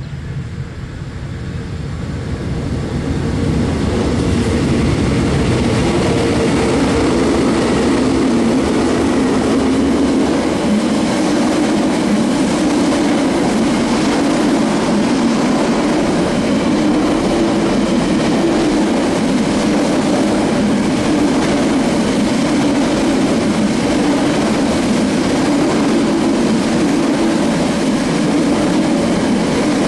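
A train rolling past on the rails. It grows louder over the first few seconds with a deep rumble, then holds a steady, loud rolling noise of wagons passing.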